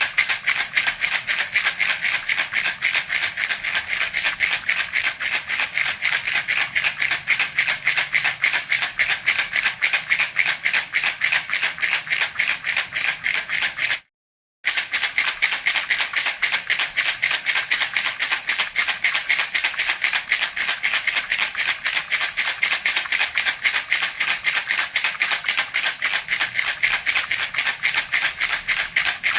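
Baby's toy rattle (jhunjhuna) shaken steadily in a fast, even rhythm. It drops out completely for about half a second midway, then carries on.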